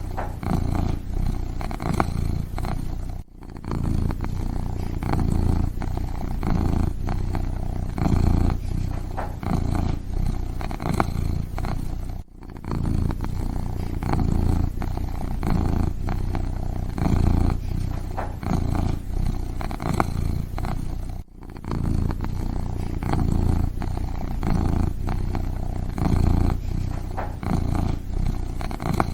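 A kitten purring steadily, a low continuous rumble that swells and eases with its breathing, with a short break about every nine seconds.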